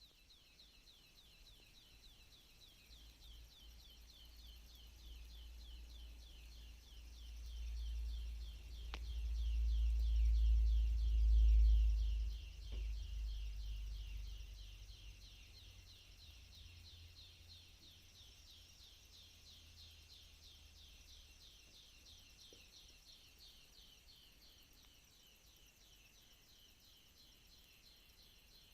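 Birds chirping in a continuous fast, high chorus of repeated notes. A low rumble swells in the middle and fades again, and a few faint clicks sound about 9 and 13 seconds in.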